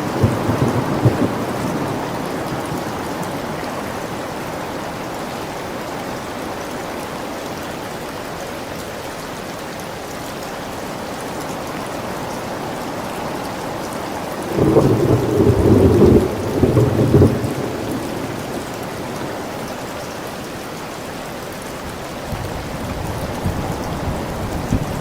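Steady rain falling, with rolls of thunder: a short rumble at the start, a loud crack and rumble about fifteen seconds in lasting some three seconds, and a softer rumble near the end.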